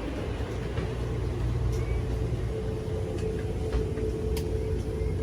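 Steady low rumble of an Amtrak Pere Marquette passenger train, with a steady mid-pitched tone joining about halfway through and a few light clicks.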